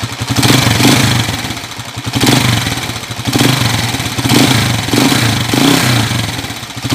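Motorcycle engine running and revved in repeated short throttle blips, noisy with a clattering tick. Its timing gear has already been replaced; the mechanic traces the clatter to fore-and-aft play of the crankshaft at the magneto side.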